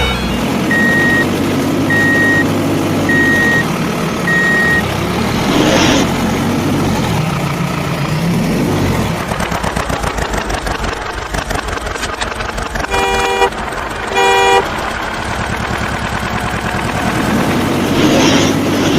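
Vehicle sound effects: an engine running with a pulsing rumble, four short beeps in the first few seconds, two whooshes, and two short horn toots a little past the middle.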